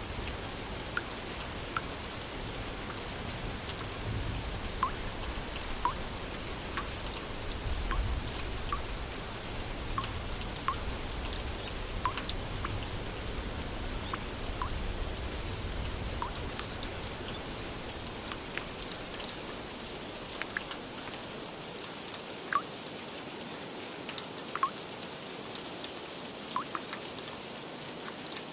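Steady rain falling, with single drops plinking irregularly over the hiss. A low rumble underneath dies away about two-thirds of the way through.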